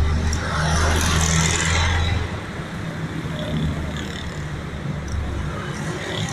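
A motor vehicle engine running amid street traffic. Its low hum is loudest for the first two seconds, then drops to a weaker rumble.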